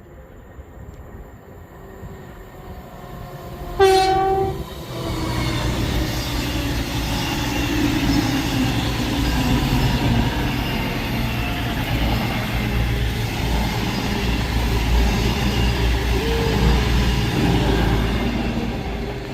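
A train sounds its horn in one short blast about four seconds in, then a loud, steady rumble of the train moving along the platform follows.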